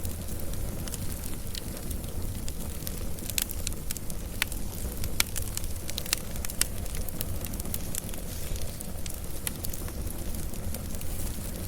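Wood fire burning, a steady low rumble of flames with scattered sharp crackles and pops from the burning logs, most frequent a few seconds in.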